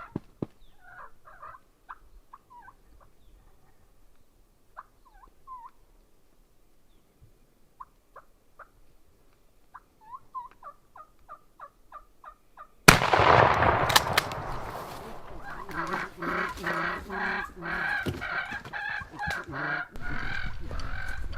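Wild jake turkeys calling with short, quick yelps and clucks, then a single shotgun shot about 13 seconds in. Loud, choppy rustling and flapping commotion follows the shot.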